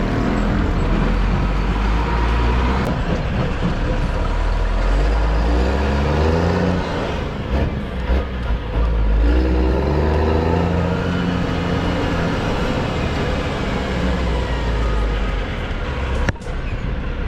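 Road vehicle driving with a heavy steady rumble. Its engine note climbs in steps about a third of the way in and then levels off, as if pulling through the gears. A short sharp click comes near the end.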